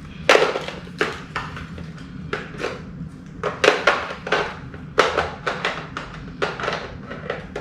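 Hard plastic parts of a cordless stick vacuum knocking and clicking against each other as they are handled and fitted together, in an irregular series of sharp knocks.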